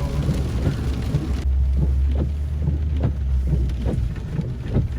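Low steady rumble of a vehicle driving, heard from inside the cab. A hiss of rain drops away about a second and a half in.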